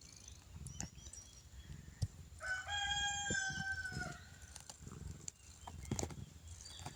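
A rooster crowing once: a single pitched call of under two seconds, starting about two and a half seconds in and dropping slightly at its end.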